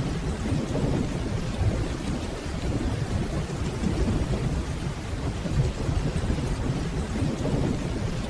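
Steady rainfall with a low, rolling rumble of distant thunder underneath.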